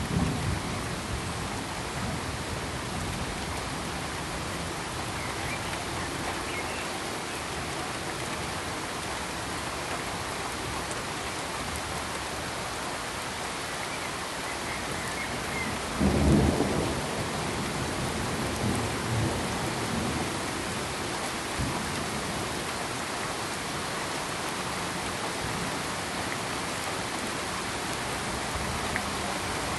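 Steady pink noise, an even hiss, with a sudden low rumble about halfway through that dies away within a second or two and a few fainter low thumps after it.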